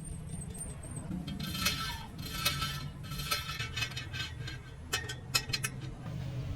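Light metallic clinking and rattling in several short bursts, then a few sharp clicks near the end, over a low steady hum.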